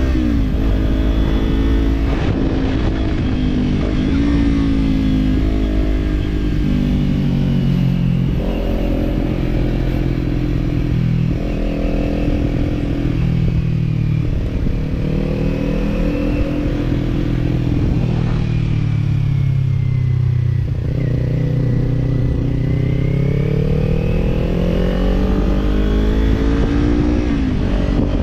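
Kawasaki parallel-twin motorcycle engine under way, its pitch climbing and dropping as the bike accelerates, shifts and eases off, slowing down around two-thirds of the way through and then building again.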